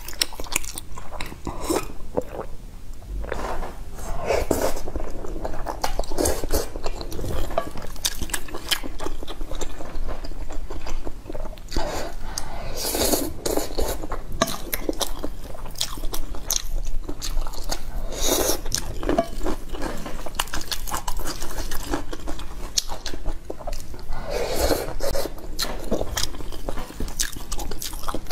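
Close-miked chewing of a mouthful of stir-fried noodles, with many small wet mouth clicks and smacks and a few louder patches every several seconds.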